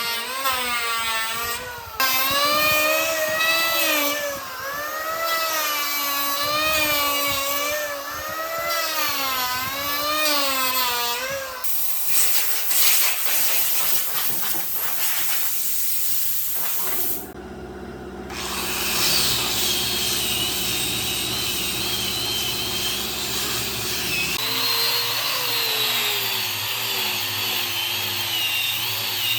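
Electric power tools working wood: a motor whose pitch wavers up and down under changing load, then a noisier stretch of cutting or sanding, a brief drop about seventeen seconds in, and a steadier motor running after it.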